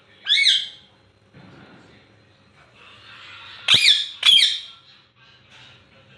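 Ringneck parrot giving three loud, shrill squawks: one near the start and two close together about four seconds in.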